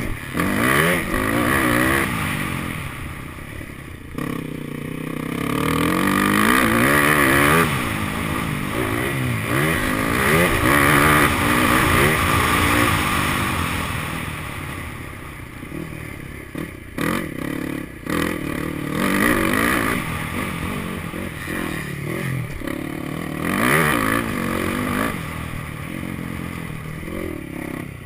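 Motocross bike engine revving hard and backing off over and over as it accelerates, shifts and slows around a track, its pitch swinging up and down.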